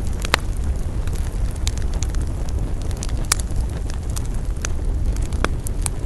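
Wood campfire crackling: irregular sharp pops and snaps, a few louder ones, over a steady low rumble.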